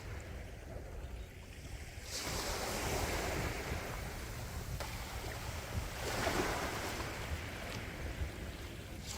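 Sea waves breaking and washing on a shore, a new wave surging in about two seconds in and more around five and six seconds, over a constant low rumble of wind on the microphone.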